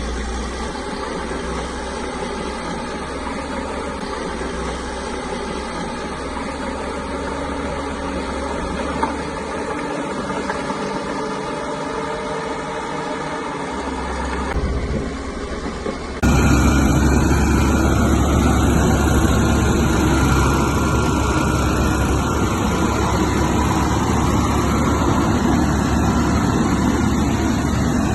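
Caterpillar bulldozer's diesel engine running steadily at work. About 16 seconds in, the sound jumps suddenly to a louder, deeper engine sound.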